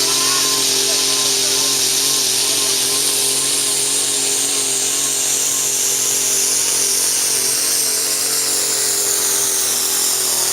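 Light limited super stock pulling tractor engine running flat out under load during a pull, a steady high-revving drone with a high whine that slowly falls in pitch.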